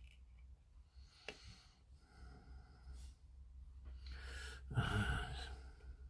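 A person breathing out heavily close to the microphone, a sigh-like exhale about two-thirds of the way through, with a faint tick of handling noise earlier.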